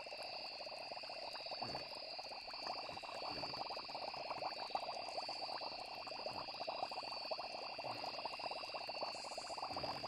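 Layered night-nature ambience: steady high insect trilling with a pulsing chirp pattern, over a dense stream of fine clicking and croaking, with low soft plops every second or two.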